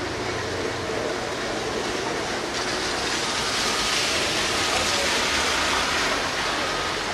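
Heavy downpour of rain, a steady hiss that grows stronger about two and a half seconds in, over a low engine rumble.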